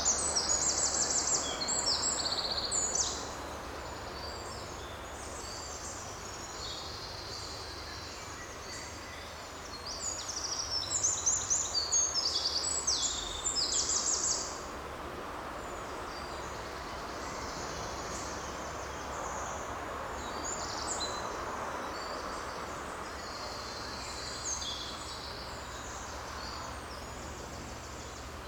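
Forest birdsong: small birds sing in bouts of quick, high, trilling notes, loudest in the first few seconds and again in the middle. A steady rush of forest background noise runs beneath them.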